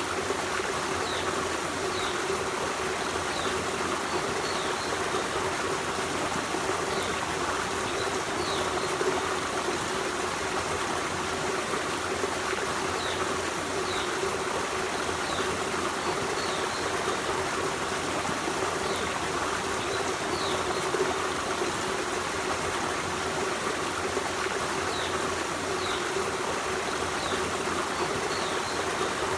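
Forest stream running steadily, with short high bird chirps every second or two.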